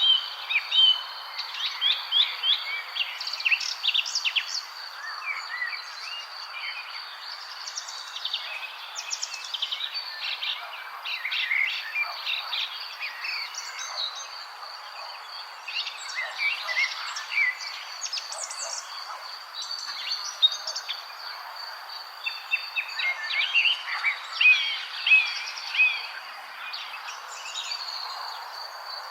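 Several small birds chirping and singing in quick, overlapping runs of short notes, over a steady high-pitched whine and a soft background hiss.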